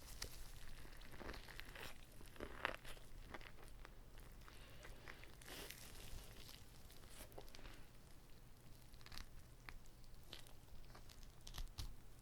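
Close-miked eating sounds: biting into and chewing a whole uncut gimbap roll, with scattered soft clicks and smacks.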